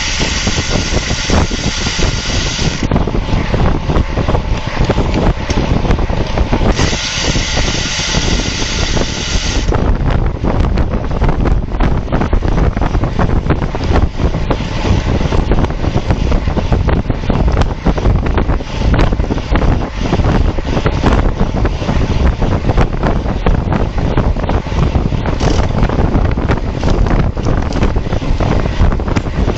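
Heavy wind noise buffeting the microphone of a camera on a road bike racing at speed, a loud rushing that rises into a brighter hiss near the start, again about a quarter of the way in, and at the end.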